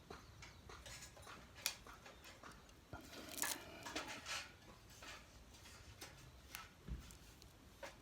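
Wood campfire crackling with scattered faint pops. A short, louder burst of handling noise comes about three seconds in.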